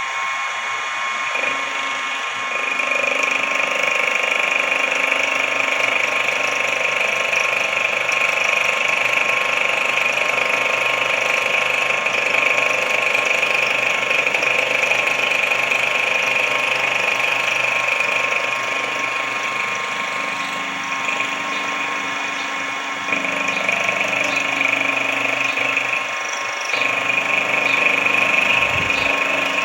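Sodré SX2 benchtop milling and drilling machine running, a steady motor and spindle whine. It grows louder a couple of seconds in, then dips and swells again in the second half.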